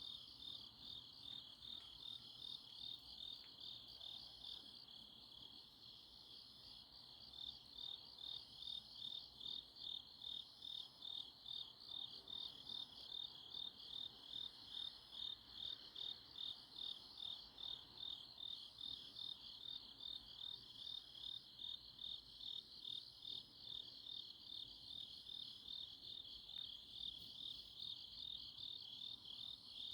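A night chorus of grass insects (crickets) chirping: a high, rapidly pulsing trill that keeps on in a steady rhythm. A fainter, higher chirp repeats every couple of seconds.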